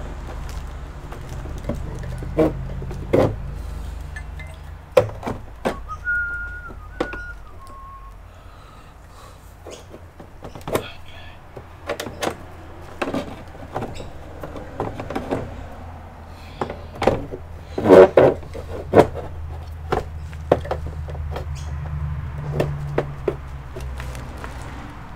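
Scattered clicks and knocks of hands and tools handling the parts of an all-in-one computer during disassembly, the loudest cluster about eighteen seconds in. A few short whistled notes, stepping down in pitch, come about six seconds in.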